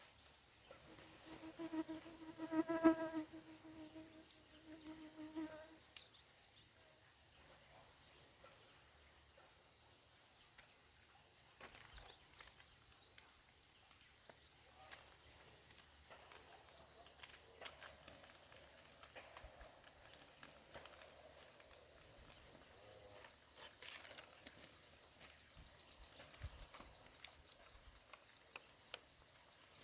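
A buzzing insect passes close by for about four seconds, one steady pitch that swells and fades. Behind it are a faint, steady high whine and scattered light clicks and taps.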